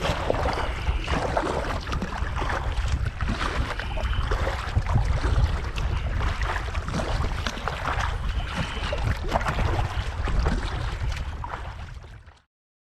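Kayak paddle strokes splashing and water sloshing against the hull, with a steady low rumble of wind buffeting the microphone. The sound cuts off abruptly near the end.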